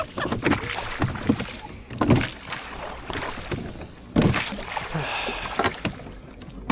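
Oars of a rowing boat dipping and pulling through lake water, a splashy stroke about every two seconds.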